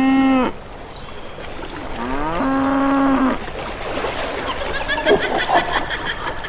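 A cow mooing twice. Each moo rises in pitch and then holds steady. The first ends about half a second in; the second lasts about a second, starting about two seconds in.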